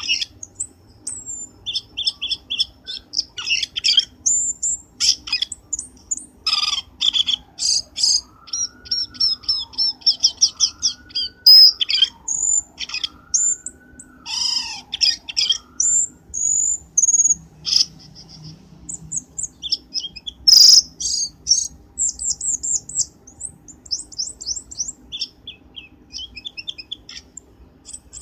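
Cucak keling bird lure call: dense runs of sharp high chirps, rapid trills and whistled notes, with lower swooping whistles rising and falling in the middle.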